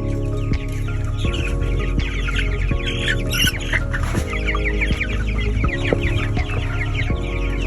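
A flock of young broiler chicks cheeping without pause, many short high peeps overlapping.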